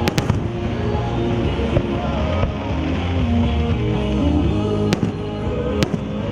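Fireworks going off over loud recorded music. There are two sharp reports in quick succession at the start, then single reports about five seconds in and just before the end.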